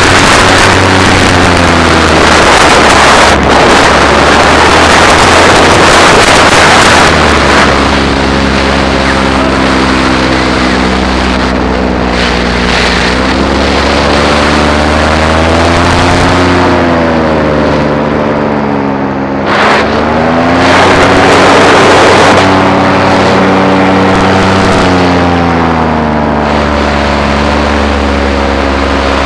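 Paramotor engine running in flight, its pitch rising and falling as the throttle changes, with heavy wind rush on the microphone during the first several seconds and again past the middle.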